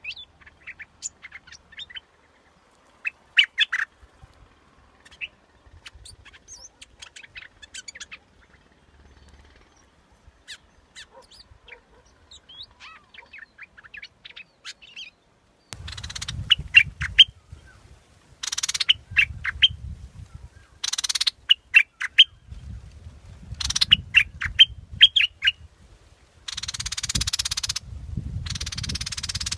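Yellow bulbul singing: short bubbly chirping phrases, sparse and soft at first. About halfway in, louder grouped bursts of song begin, each carrying a low rumble and hiss with it. This is a recording of the kind played as a decoy call to lure bulbuls.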